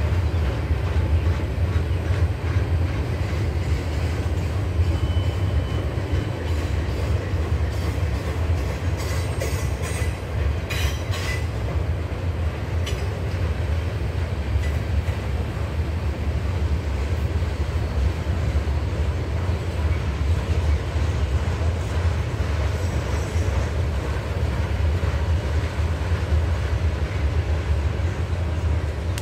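Freight cars (boxcars and covered hoppers) of a Norfolk Southern train rolling past on the rails: a steady heavy rumble of steel wheels on track, with a short run of sharp clicks about ten seconds in.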